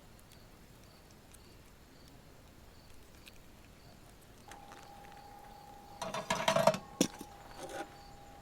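Quiet outdoor background, then about six seconds in a short burst of clattering and handling noise ending in a sharp click, as camp cooking gear and food are handled. A faint steady tone begins a little before it.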